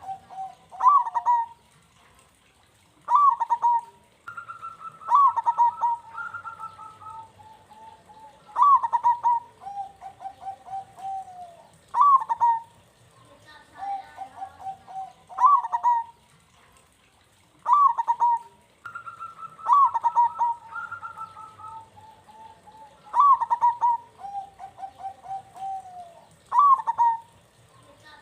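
Zebra dove (perkutut) cooing in repeated phrases, one every three to four seconds. Each phrase is a sharp, bent opening note followed by a quick run of lower, rapid stuttering coos.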